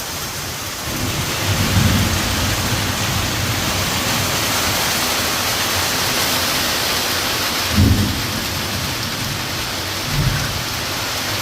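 Heavy rain pouring down in a dense, steady hiss that swells louder for several seconds, with a few short low rumbles along the way.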